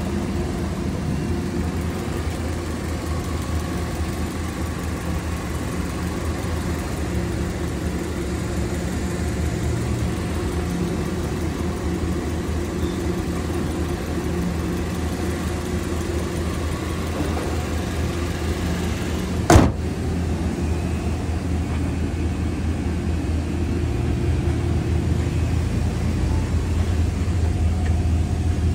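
Range Rover Velar's engine idling steadily with the hood up, a low even hum. A single sharp click comes about two-thirds of the way through.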